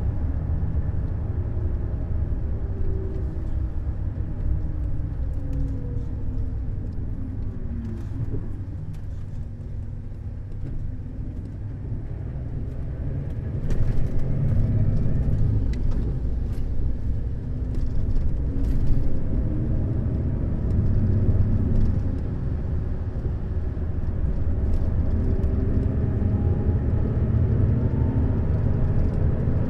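Neoplan Skyliner N 1122/3C double-decker coach driving, with a steady low engine and road rumble. The engine note falls over the first several seconds, then climbs again, and the sound gets louder about 14 seconds in.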